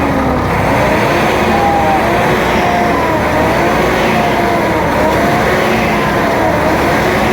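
Large truck running on the road, a loud steady drone with a thin tone weaving slowly up and down above it.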